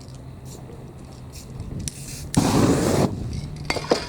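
A short blast from an aerosol spray-paint can, a hiss lasting under a second, followed by a few sharp clicks near the end, over a low steady hum.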